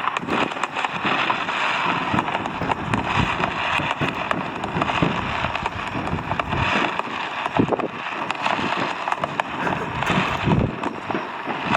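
Fireworks crackling continuously: a dense spray of small sharp pops over a steady hiss.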